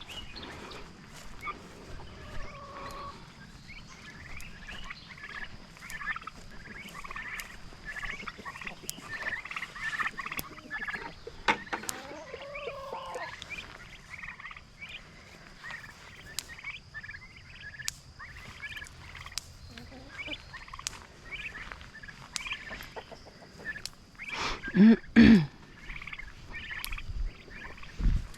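A flock of turkeys calling, with many short, high calls one after another. About 25 s in, two much louder, lower calls stand out.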